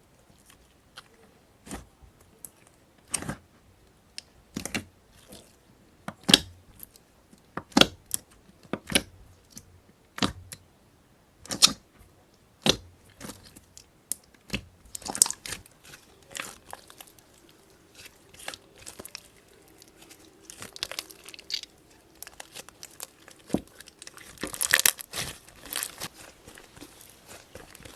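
Slime being pressed and poked by hand close to the microphone, giving sharp crackling pops about once a second that turn into a denser crackle near the end.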